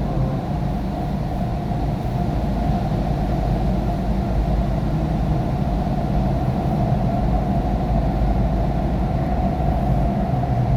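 Steady in-cabin noise of a car driving on a wet road in the rain: constant tyre and road noise over a low engine rumble.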